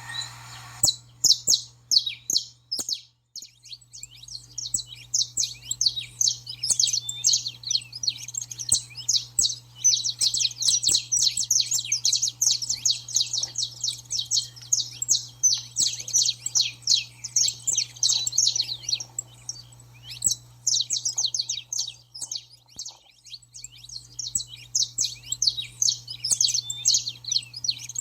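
Saffron finch's agitated 'baderna' call: dense, rapid runs of sharp high chirps, starting about a second in and briefly breaking off about twenty seconds in. It is the excited, combative song used to rouse other males. A faint steady low hum lies underneath.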